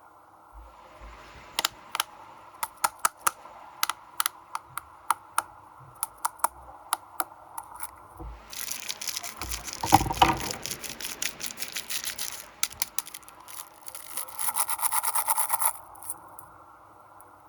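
Plastic snack wrappers being handled and torn open: a run of sharp crinkles and crackles, a longer crinkling rustle about halfway through, and another dense crinkling burst near the end.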